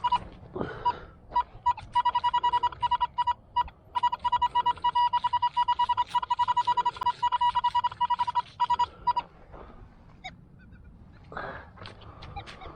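Metal detector beeping on a metal target: a steady high electronic tone pulsed many times a second, sparse at first, then rapid, stopping abruptly about nine seconds in. The signal marks buried metal, here coins in the dig.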